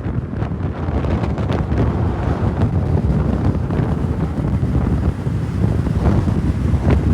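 Wind buffeting the microphone over a steady low rumble of car engines.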